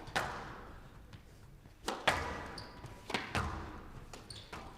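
Squash ball being struck by rackets and smacking off the court walls during a rally: sharp hits every second or so, some in quick pairs, each with an echoing tail.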